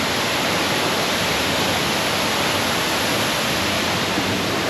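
Large waterfall rushing steadily, a constant wash of falling water.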